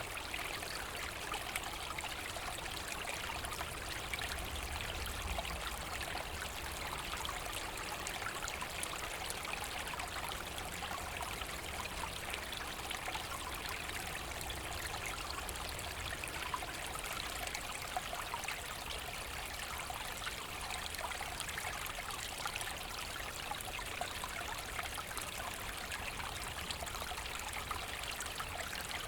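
A forest stream running over stones: a steady, even trickle and splash of flowing water.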